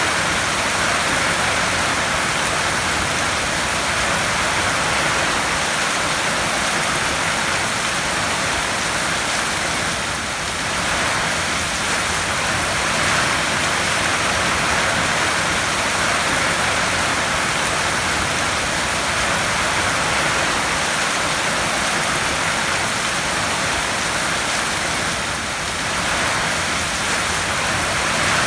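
Heavy rain falling on a tin roof: a dense, steady hiss that eases slightly twice.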